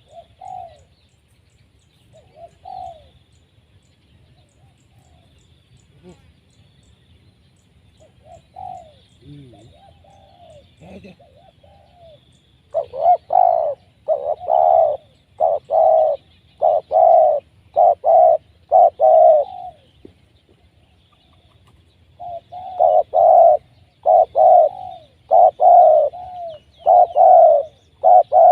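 Spotted dove (tekukur) cooing. A few faint coos come first, then two long, loud runs of rhythmic coos, about one a second, with a short break between them.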